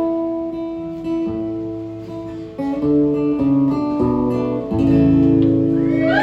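Acoustic guitar strumming the closing chords of a song, each chord left to ring before the next, with several chord changes.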